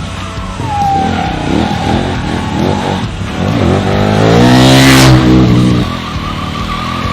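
KTM streetbike engine revved hard and repeatedly while drifting, the revs rising and falling, with a long climb to a peak about five seconds in before dropping. Tyre squeal and skid hiss run alongside.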